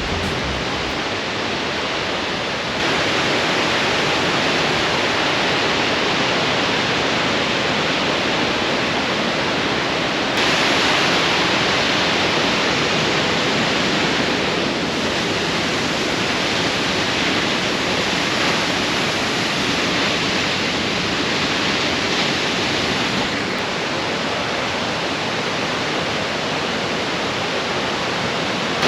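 Steady rush of a waterfall and fast-flowing creek water, with abrupt small jumps in level about 3, 10, 15 and 23 seconds in where one shot cuts to the next.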